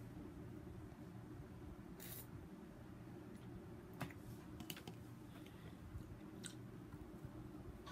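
Quiet close-up eating: chewing baked chicken eaten by hand, with a handful of sharp mouth clicks and smacks over a low steady background hum.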